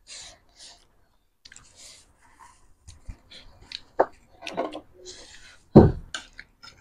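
A person eating chatpate and panipuri close to the microphone: irregular crunches, chewing and wet mouth clicks, with breaths. The loudest crunch comes a little before the end.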